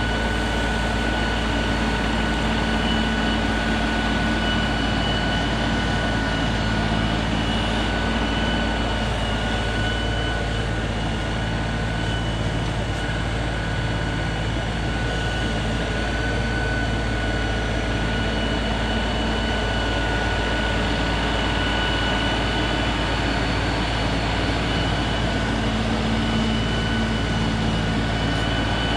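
LS MT3 compact tractor's engine running steadily under work, with a constant high whine over its low drone.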